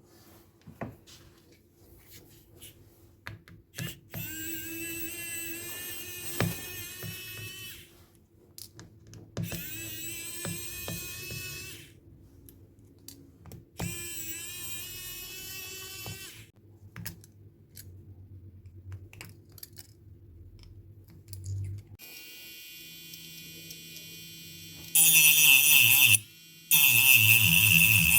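A small motor whirring in three bursts of about four seconds each, its pitch climbing as it spins up at each start, with light clicks in between. Near the end a steady whine sets in, then a louder one.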